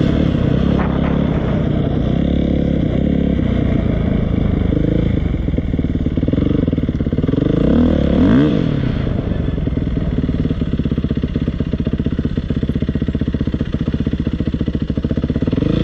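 Dirt bike engine running, revved up and back down about halfway through, then settling to a steady idle.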